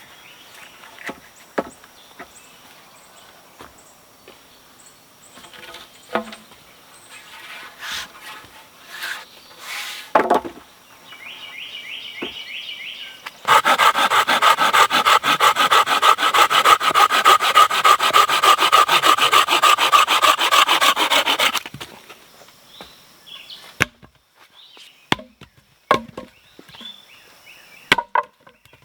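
A hand saw cutting through a wooden pole with quick, even strokes for about eight seconds, starting roughly halfway through; before and after it, scattered knocks and clicks of wood being handled.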